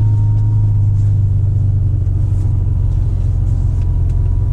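1999 Acura NSX V6 with a Science of Speed twin-turbo kit and Pride lightweight exhaust, idling steadily just after starting, fully warmed up.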